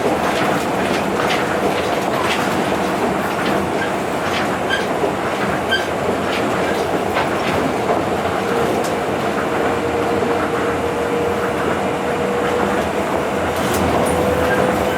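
Tokyo Monorail train running at speed, heard inside the car: a steady rumble from the rubber-tyred running gear on the guideway, with a steady motor hum that grows stronger about halfway through, and irregular sharp clicks as the car crosses beam joints.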